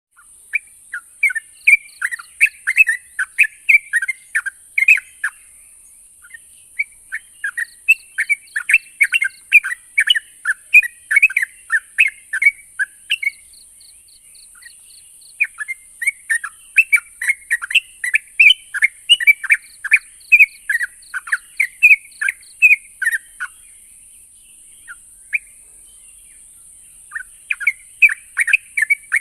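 Yellow-vented bulbul (trucukan) singing: long phrases of quick, bubbling chirps broken by brief pauses, over a steady high hiss.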